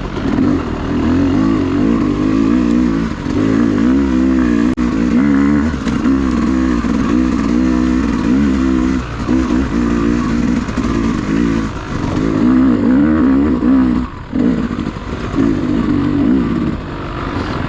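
Dirt bike engine being ridden hard, its pitch rising and falling as the throttle is rolled on and off. The engine note drops off briefly a few times in the second half, most sharply near the end.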